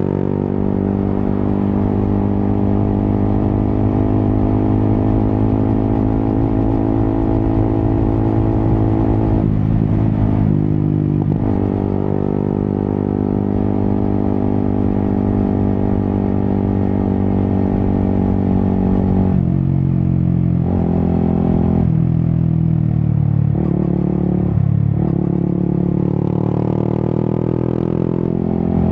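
Yamaha XSR 155's single-cylinder engine running through an Akrapovic exhaust while riding: a steady cruising note, broken by a gear change about ten seconds in. Several more shifts and throttle changes follow in the last third, with revs rising near the end.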